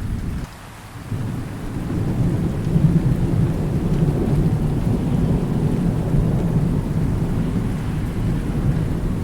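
Thunderstorm: steady rain with a long, low rolling rumble of thunder. The sound drops out briefly about half a second in, then the rumble swells about two seconds in and keeps rolling.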